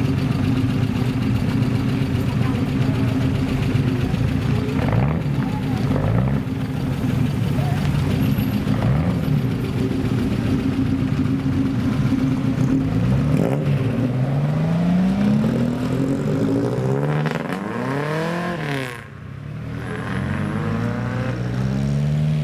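Old cars' engines idling, then revved again and again, the pitch climbing and falling with each blip, most of the revs coming in quick succession in the second half.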